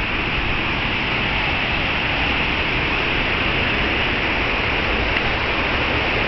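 Steady rushing of falling water from a small river and waterfall, an even hiss with no breaks.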